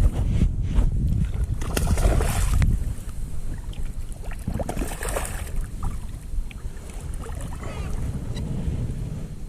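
Wind buffeting an open microphone, heaviest for the first three seconds, with a few splashes of shallow water around two and five seconds in.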